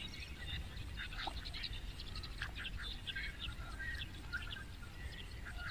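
Small birds chirping in many short, quick calls, over a steady low rumble.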